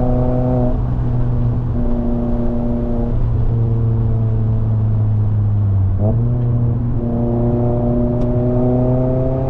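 Mazda MX-5 Miata's 2.0-litre four-cylinder engine and exhaust under way, its pitch sagging slowly for a few seconds, then jumping up sharply about six seconds in with a downshift, and climbing steadily as the car accelerates.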